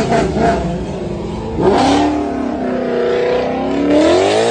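Car engine revving, its pitch dipping and holding, then climbing to a peak near the end before falling away.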